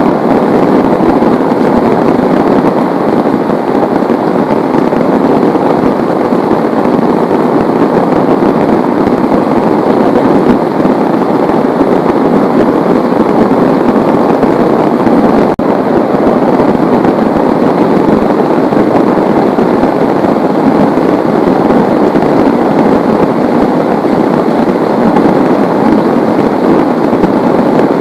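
Heavy rain falling in a steady, dense downpour, a loud even rush of drops.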